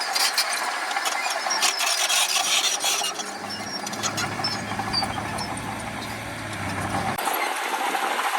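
Heavy earthmoving machinery working: a diesel engine running under a gritty scraping and clattering. A deeper engine hum comes in about three seconds in and drops away near the end.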